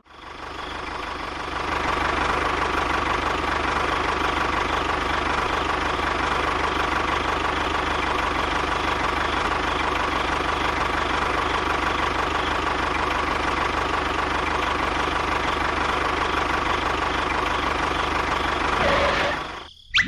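A small motor running steadily with a rapid rattle and a faint steady whine. It fades in over the first couple of seconds and fades out near the end.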